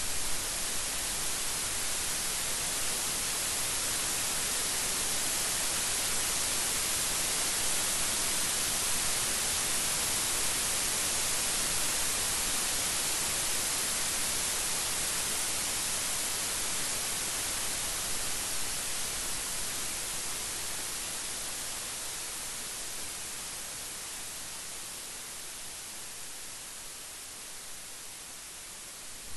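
Steady rainfall, a dense even hiss with no single drops standing out, which grows slightly and then fades gradually over the last third.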